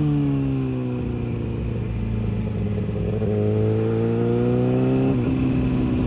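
Kawasaki ZX-6R inline-four engine through its exhaust. The engine speed drops in the first second, then holds steady and creeps slowly up, with a brief dip about five seconds in.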